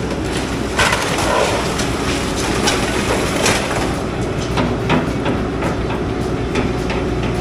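Excavator engine running steadily while its bucket breaks into a house: a low engine drone with a string of sharp cracks and crashes of the structure giving way, the loudest about a second in.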